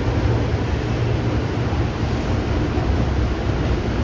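Steady rumbling running noise of an ex-Tokyo Metro 03-series electric train.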